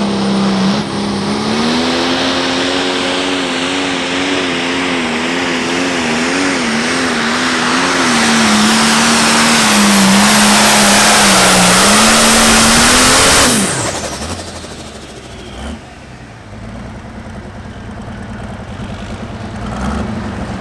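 Turbocharged diesel pulling-tractor engine at full throttle under load during a hook, its pitch wavering up and down as it pulls, with a rising turbo hiss building for about 13 seconds. The throttle is then chopped abruptly and the engine winds down, with a single knock a couple of seconds later and the engine ticking over again near the end.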